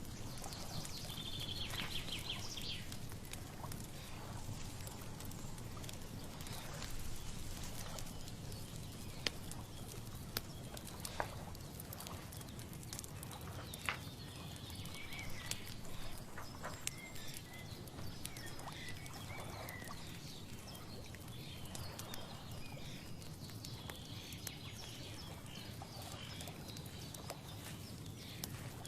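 Outdoor nature ambience: a steady background hiss with scattered sharp clicks and short high bird chirps now and then, near the start, in the middle and near the end.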